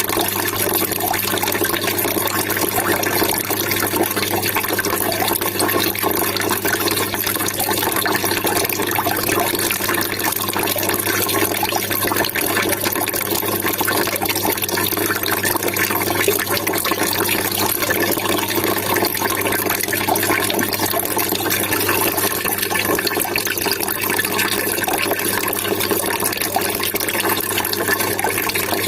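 Water trickling and splashing in a steady, unbroken stream, with a faint steady low hum beneath it.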